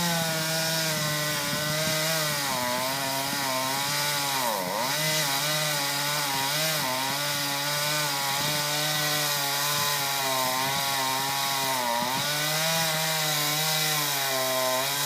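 Chainsaw running at high revs while cutting into the tree. The engine note holds steady and sags briefly twice as the chain bites under load.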